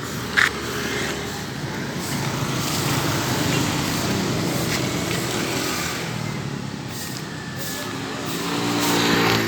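Road traffic: motor vehicles running past on the street, with an engine growing louder to a peak near the end. A sharp knock about half a second in.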